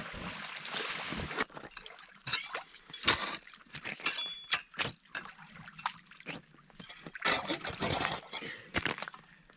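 Water sloshing and splashing in a freshly cut ice-fishing hole, with irregular knocks and scrapes of ice as the cut block of ice is worked down into the hole.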